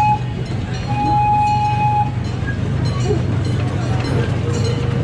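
Miniature amusement-park train running with a steady low engine drone. Its horn sounds a long, steady toot about a second in, just after an earlier toot ends.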